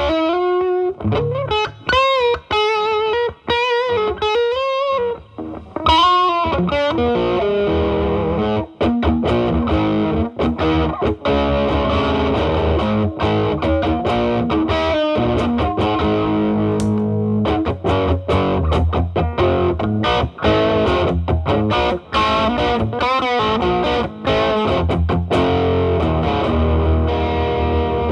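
Gibson SG's humbucker electric guitar through an MXR Distortion+ stacked with a gain boost pedal, into the drive channel of a Marshall Valvestate amp: heavily distorted lead playing. The first few seconds are bent single notes with vibrato, then thicker sustained chords and riffing.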